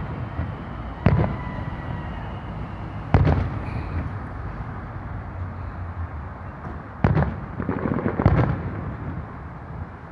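Aerial firework shells bursting at a distance: sharp bangs about one and three seconds in, then a quick cluster of bangs and crackles around seven to eight and a half seconds in.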